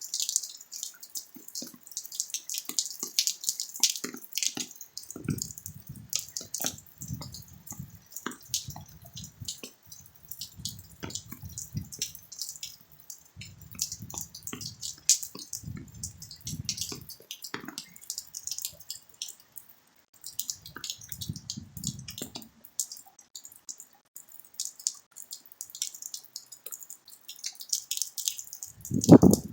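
Rain dripping and pattering as many separate, irregular drops and taps. A low rumble comes and goes through the middle, and a louder low thud lands right at the end.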